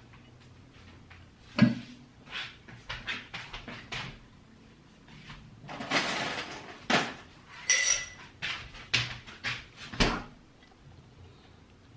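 Kitchenware being handled: a run of light knocks and taps, a short rustle about six seconds in, and a ringing clink near eight seconds.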